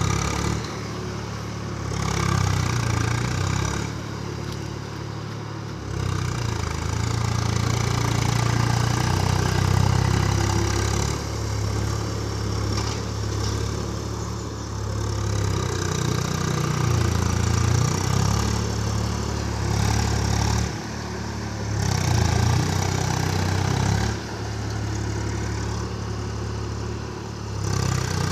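Swaraj tractor's diesel engine running, its low note and level shifting abruptly every few seconds.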